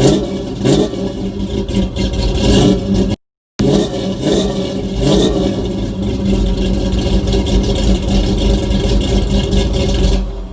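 1986 Chevrolet Monte Carlo LS's newly installed engine running, revved a few times so the pitch rises and falls, then running steadily. A brief dropout about three seconds in, and the sound fades near the end.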